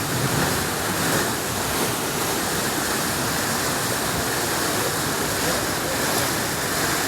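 A steady, even rush of water noise, as from heavy rain or water running on a flooded street.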